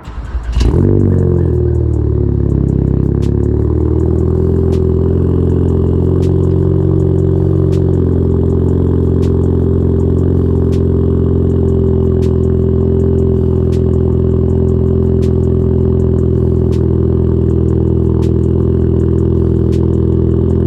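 Ford Focus ST's turbocharged 2.0-litre four-cylinder starting up through a catless downpipe, AWE Track Edition exhaust and Vibrant Ultra Quiet resonator. It flares briefly about half a second in, then falls away and settles to a steady idle.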